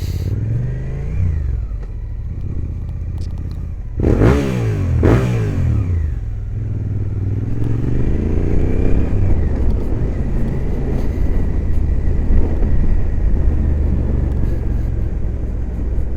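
Suzuki GSX-8S parallel-twin engine, recorded from a helmet microphone with wind rumble, revved hard twice in quick succession about four seconds in after a smaller rev near the start, then running on steadily while the bike rides and accelerates.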